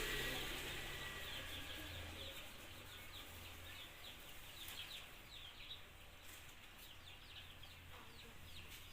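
Faint chirping of birds, many short high chirps in quick succession, over a low steady hum.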